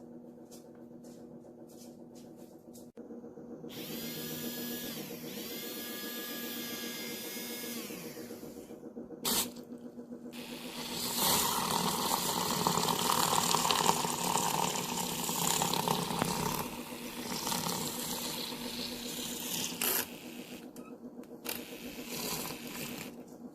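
Handheld battery milk frother's small motor whirring, with a steady hum throughout, a wavering pitch for a few seconds, then louder and noisier in the middle stretch before easing off.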